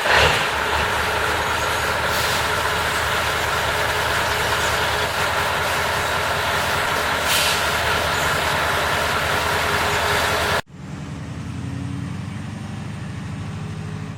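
Scania LBS 141's 14-litre DS14 turbo-diesel V8 running steadily and loud, with two short hisses a few seconds apart. About ten seconds in the sound drops suddenly to a quieter, lower engine hum.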